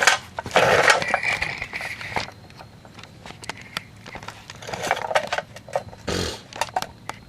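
Brake rotor being fitted back onto the wheel hub: metallic scraping and clanking for the first couple of seconds, scattered clicks of metal on metal, and a dull thump about six seconds in.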